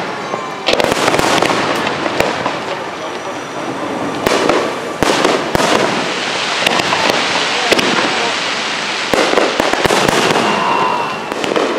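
Fireworks display: aerial shells bursting in a string of sharp bangs, with crackling between them.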